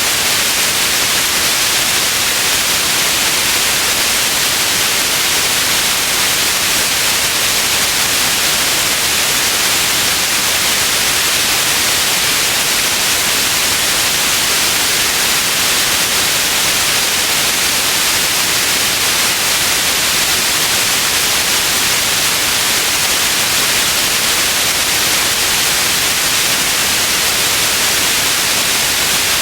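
Steady, loud white noise: an even hiss that does not change, brightest in the upper range.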